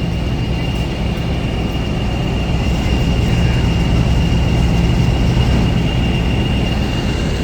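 Vulcan Foundry-built British Railways diesel locomotive idling close by, a steady low engine note with a thin, steady high whistle over it, swelling slightly a few seconds in.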